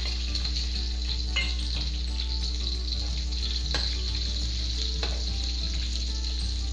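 Garlic and sliced onion sizzling steadily in hot oil in a wok. A metal ladle stirs them and knocks against the pan a few times.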